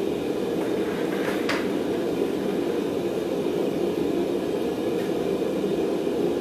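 Forge running with a steady, even rushing noise while steel heats in it.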